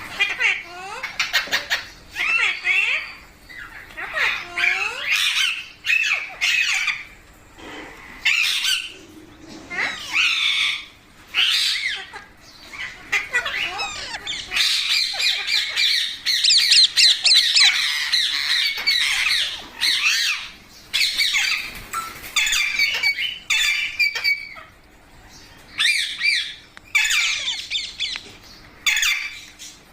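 Parrot squawking and chattering: a string of short, harsh calls, with a run of rapid chatter lasting several seconds about halfway through.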